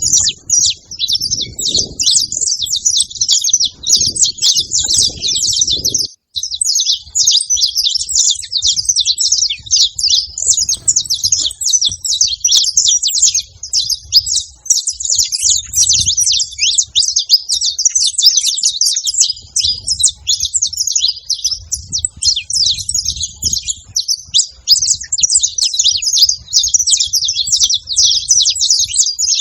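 Saffron finch (canário-da-terra) singing: a long, fast run of high chirps and trills that goes on almost without a break, pausing only briefly about six seconds in.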